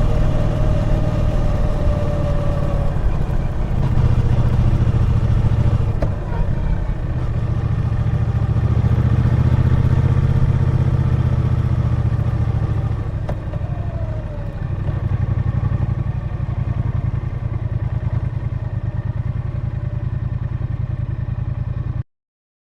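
Triumph Bonneville T120's 1200 cc parallel-twin engine running on the move, the throttle opening and easing off a few times. The sound cuts off abruptly near the end.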